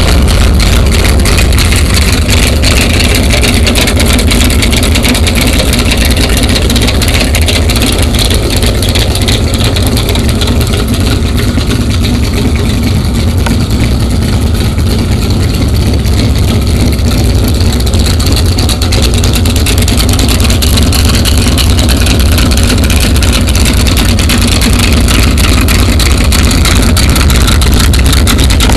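Dodge Dart drag car's 408-cubic-inch stroker V8, built from a Mopar 360 small-block, running loud and steady with a deep low rumble and no revving.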